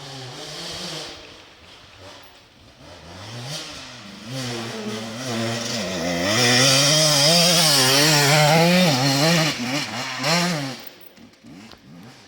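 Enduro motorcycle engine approaching and passing close, the rider working the throttle so the pitch rises and falls over and over; loudest from about six to ten seconds in, then fading quickly.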